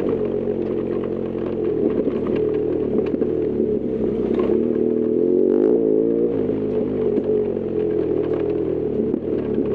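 BMW R1200GS Adventure's flat-twin boxer engine running under way, its note shifting up and down with the throttle a couple of times. Short clicks and ticks are scattered over the engine sound.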